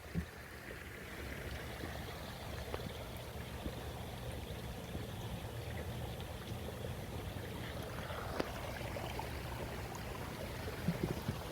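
Steady rain falling, with water trickling, and a few faint clicks.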